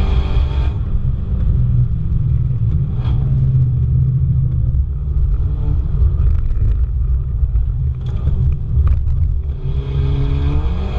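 Car engine on a track lap, revving hard then lifting off about a second in. A low, steady rumble of road and wind noise follows until the engine note rises again near the end.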